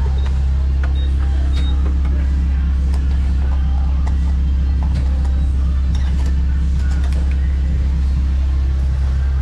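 Honda Civic Si engine running at a steady, unchanging speed, a low drone with no revving. Faint scattered clicks and rattles sound over it.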